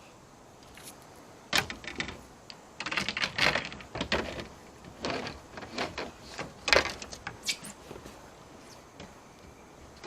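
Irregular knocks, clunks and scraping rustles from a fish and fishing gear being handled in a kayak. They start about a second and a half in, are busiest in the middle, and die away after about seven and a half seconds.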